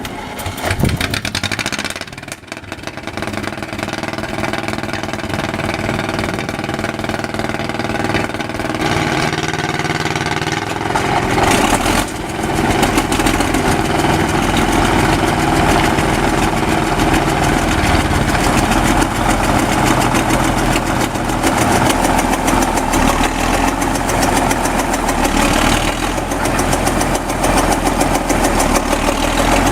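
Caterpillar D8 2U bulldozer's pony-motor-started diesel engine starting and running after five years idle, with a rough, knocking clatter. It gets louder and fuller about twelve seconds in, then runs steadily.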